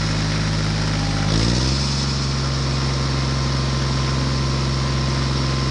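Tractor engine idling steadily, its pitch stepping up a little about one and a half seconds in, then holding steady.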